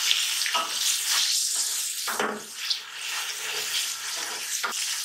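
Tomato pieces sizzling in hot oil with fried onions, while a wooden spatula stirs and scrapes them around the metal pot with a few short strokes.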